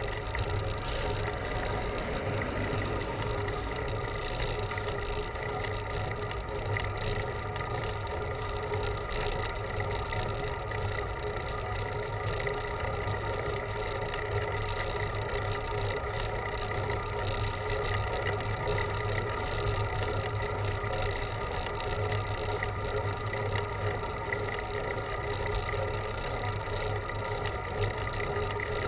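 Steady wind and road noise recorded while riding a bicycle, with a constant low hum underneath.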